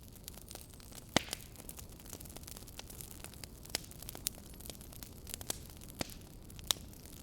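Fireplace crackling: irregular sharp pops and snaps over a steady low hiss, with a couple of louder pops about a second in and near the end.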